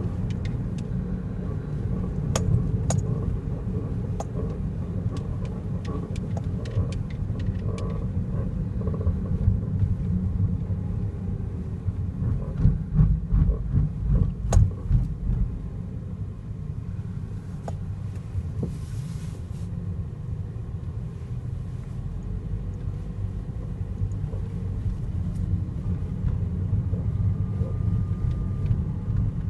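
2008 Toyota Vios on the move: steady road and running rumble with scattered sharp clicks and knocks, and a run of heavier low thumps about halfway through. This is the steering-area noise the owner hears only while the car is moving, source not yet found.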